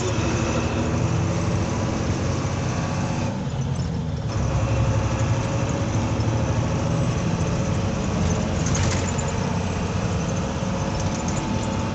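Truck engine running steadily under road and wind noise. The higher noise thins out briefly about three seconds in.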